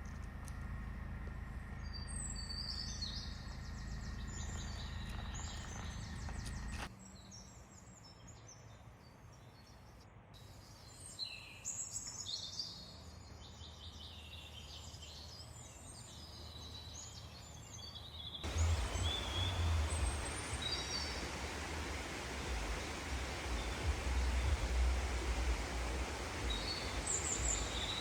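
Small birds chirping and twittering over outdoor background noise. The background changes suddenly twice: a low hum drops away about a quarter of the way in, and a louder, steady rushing noise comes in about two-thirds of the way through.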